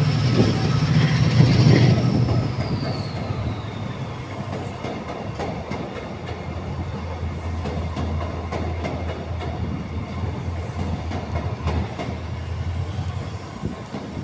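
Class 68 diesel locomotive 68032 pulling a TransPennine Express coach set away from the station. A loud low engine sound and a high whine in the first couple of seconds; the whine falls in pitch as the locomotive draws away. Then the coaches roll past with a steady low hum and wheels clicking over the rail joints.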